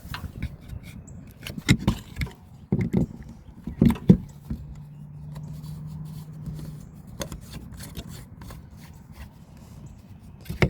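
Knocks, clicks and scrapes of an RV shore power cord and plug being handled and hooked up. A low steady hum sounds for a couple of seconds in the middle.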